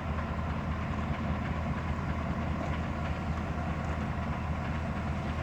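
Engine of a piece of road-construction machinery running steadily, a low even rumble.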